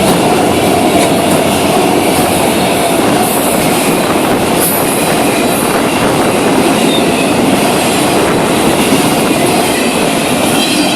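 Freight cars of a Florida East Coast Railway train rolling past at speed: a loud, steady clatter of steel wheels on the rails.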